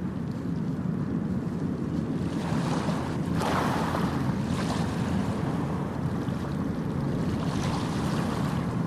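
Ocean surf: a steady low rush of waves, with a wave breaking and washing in about three and a half seconds in and another surge near the end.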